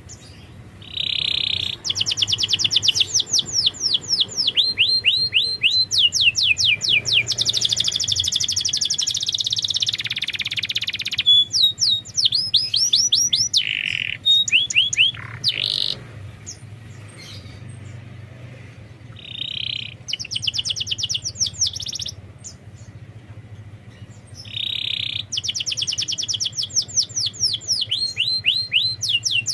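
Domestic canary singing: long phrases of rapid, repeated falling notes, each phrase opening with a short buzzy note, with a few pauses of a couple of seconds between phrases.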